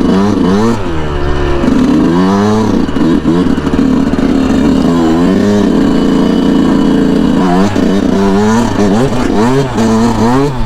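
A Yamaha YZ125's 125 cc single-cylinder two-stroke engine being ridden hard through sand, revving up and dropping back several times as the throttle is worked.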